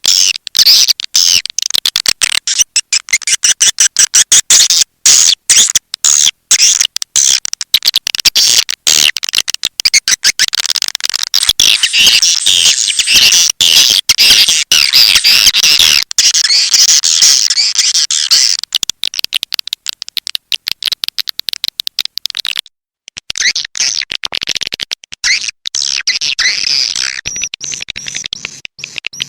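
Recorded swiftlet call: dense, rapid, high chirping and twittering of swiftlets, the lure sound played to draw swiftlets into a nesting house, with a brief break about two-thirds of the way through.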